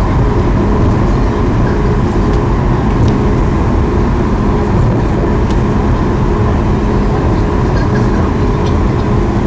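Steady, loud cabin noise inside a Boeing 737 MAX 8 airliner: engine and airflow noise, with a few steady low hums underneath.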